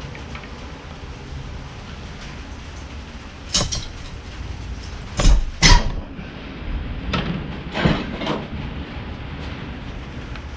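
Sharp metal clicks and knocks from a brake-line flaring tool during the second step of a double flare on a 3/16-inch brake line: about six of them in the middle of the stretch, the loudest two close together about halfway through, over a low steady hum.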